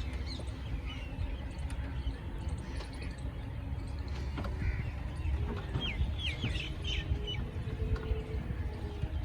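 Small songbirds chirping and twittering in short calls, with a quick run of sweeping chirps about six seconds in, over a steady low rumble.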